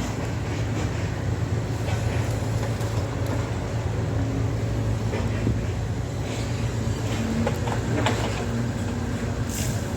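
Heavy construction machinery running with a steady low engine rumble, with scattered knocks and clatter of work on the site.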